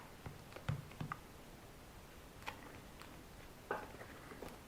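A few light, scattered clicks and taps from small objects being picked up and set down by hand. A duller knock comes about a second in, and further clicks follow at irregular intervals.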